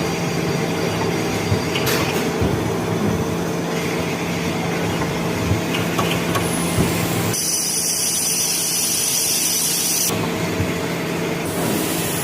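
CNC machine running steadily while machining brass 3/4-inch NPT pipe fittings, a continuous mechanical hum with a few light clicks. High whining tones join in a little past the middle for about three seconds, then drop away.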